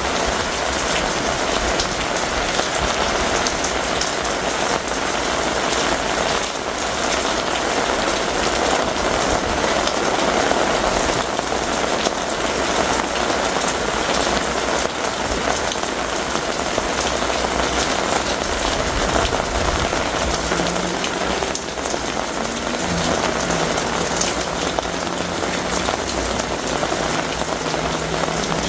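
Heavy thunderstorm rain falling steadily, a dense patter of drops. About two-thirds of the way through, a faint low steady hum joins it.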